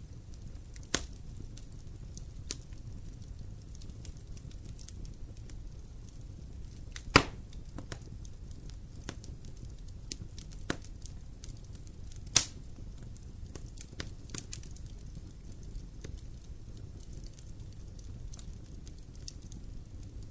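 Wood fire burning in a fireplace: a low steady rumble with scattered crackles and sharp pops, the loudest snaps about a second in, about seven seconds in and about twelve seconds in.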